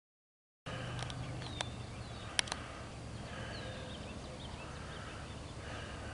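Many marsh birds calling faintly and often over a steady outdoor background, with a few sharp clicks about one to two and a half seconds in. The sound cuts in after a moment of dead silence.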